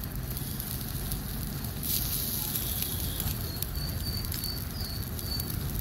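Onion and tomato frying in a miniature kadai, a steady sizzle with small crackles. In the second half, a bird chirps faintly about five times in a quick series.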